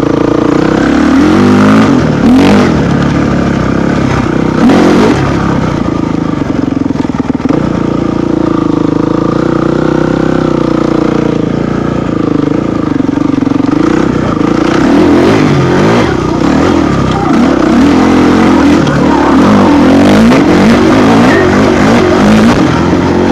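Off-road vehicle engine running hard over rough dirt, the revs rising and falling throughout.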